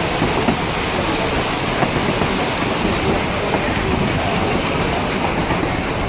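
Narrow-gauge railroad car rolling along the track: a steady rumble and clatter of wheels on rails, with a few faint clicks.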